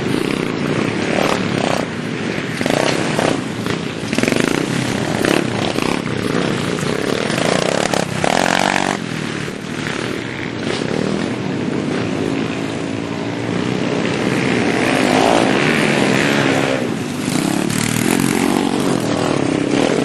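Minibike engines running and revving, their pitch rising and falling repeatedly.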